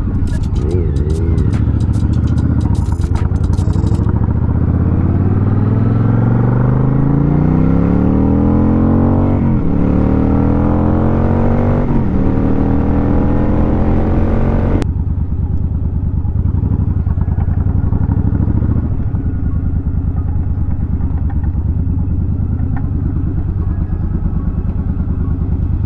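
Kawasaki Z900's inline-four engine accelerating hard, its pitch climbing through the gears with upshifts about nine and a half and twelve seconds in, in the power mode that the rider calls 60% power. About fifteen seconds in the sound drops abruptly to a steadier, duller running sound.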